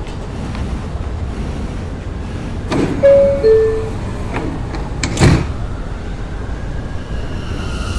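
R179 subway train standing at the platform with a steady low rumble; its two-note descending door chime sounds about three seconds in, and a heavy knock follows about two seconds later as the doors shut. Near the end a rising motor whine begins as the train starts to pull out.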